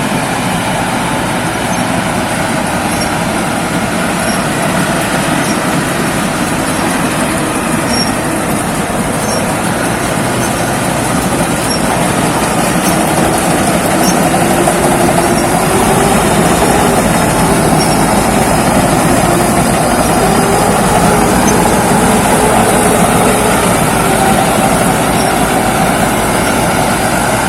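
Rice combine harvester running steadily as it cuts a field of rice: engine and threshing machinery making a dense, continuous mechanical noise, growing a little louder about halfway through.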